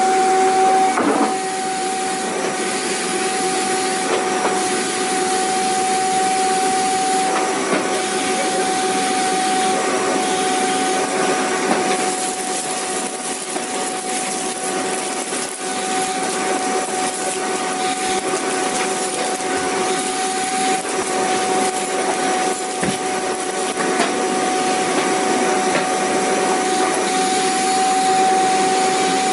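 Vacuum cleaner running steadily: a constant motor whine over an even rushing hiss of air.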